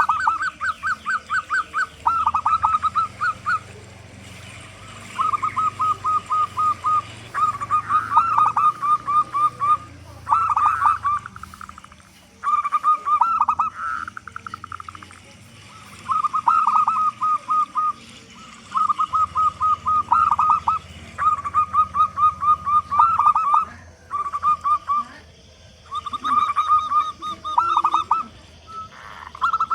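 Zebra dove (perkutut) cooing: about a dozen phrases of rapid staccato notes, each a second or two long, with short pauses between them. Fainter chirping from other birds sits higher up.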